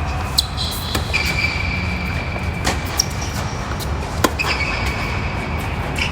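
Tennis balls being struck during a doubles rally: sharp pops a second or more apart over a steady low rumble, with two drawn-out high squeaks.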